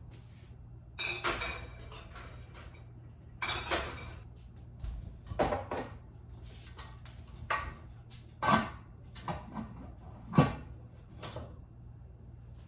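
Glass canning jars and a metal pressure canner being handled: a run of irregular clinks, knocks and scrapes, the loudest near the middle and shortly before the end.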